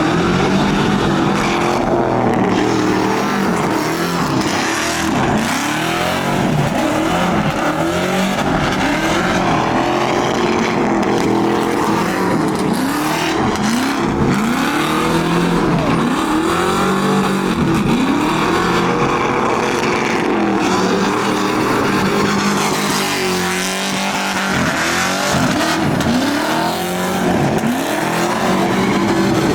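Truck engine revving up and down over and over, a rise and fall in pitch about every two seconds, over a steady haze of tire squeal, typical of a truck spinning donuts.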